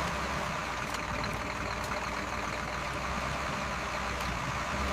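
Tow truck engine running steadily while its winch drags a car aboard, with a faint steady whine over the low drone.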